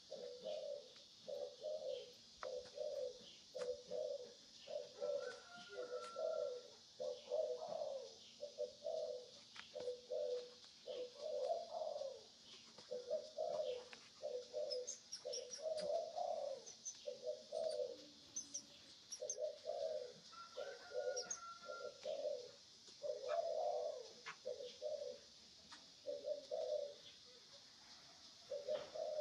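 Bird calls: a low cooing repeated about twice a second, with a few high chirps about halfway through.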